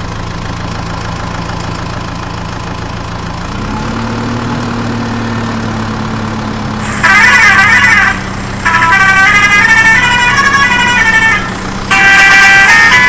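Battery-operated toy vehicle's electronic sound effects: a steady engine hum that steps up in pitch about three and a half seconds in, then three loud stretches of a beeping electronic tune from about seven seconds on.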